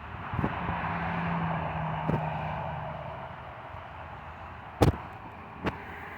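A vehicle passing by, its noise and a low steady hum swelling up and fading away over about three seconds. Several sharp knocks come through, the loudest about three-quarters of the way in.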